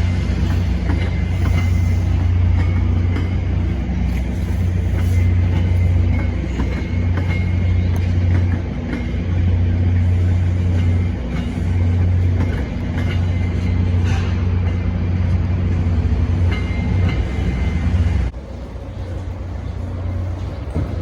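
NJ Transit train locomotive running steadily at the platform, a deep even hum with a faint steady whine above it. The hum drops away abruptly about eighteen seconds in, leaving quieter background sound.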